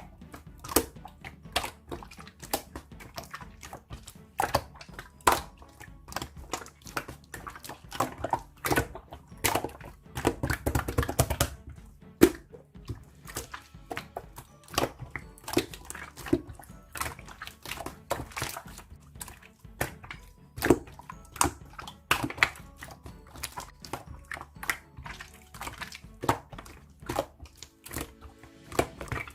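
Slime being squished, poked and stretched, with many small irregular popping clicks as air pockets burst. There is a denser, heavier run of squelching about ten seconds in. Quiet background music plays underneath.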